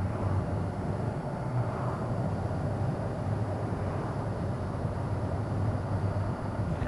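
Honda CBR sport bike's engine running steadily at road speed, with wind and road noise on a bike-mounted microphone.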